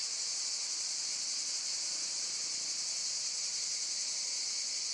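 Dense chorus of insects chirring: an unbroken, high-pitched buzz that stays steady throughout.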